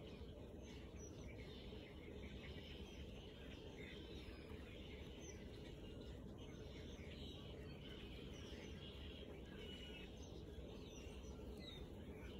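Faint steady background rumble and hiss, with small birds chirping faintly and intermittently.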